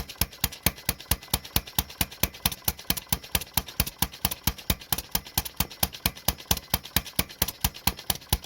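Paradox model gas engine, a non-compression flame-ignition engine, running steadily with sharp, evenly spaced beats at about five a second.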